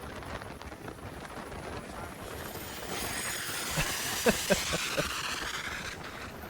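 Rushing wind and water noise of a fast boat run, swelling about three seconds in, with a quick run of five or six sharp knocks or pops a little past the middle.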